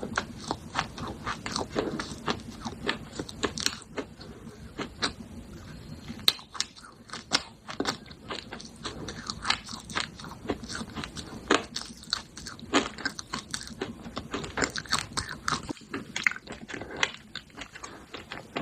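Close-up crunching and chewing of pieces of baked clay pot: irregular sharp crunches, a few each second.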